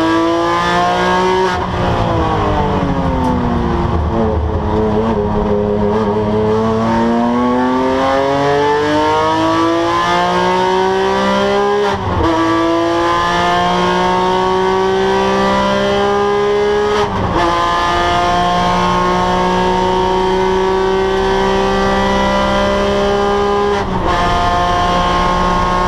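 Porsche 997 GT3 flat-six engine under hard driving: the pitch falls as the car slows for a corner, then climbs under full throttle, dropping sharply at three upshifts about 12, 17 and 24 seconds in.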